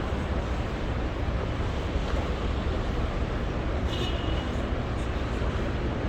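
Steady city street noise of traffic, a constant hiss over a low rumble, with a brief high-pitched squeak about four seconds in.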